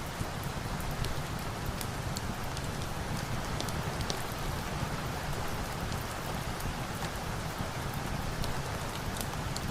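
Steady rain, with a crackling log fire adding scattered small, sharp pops and snaps over it.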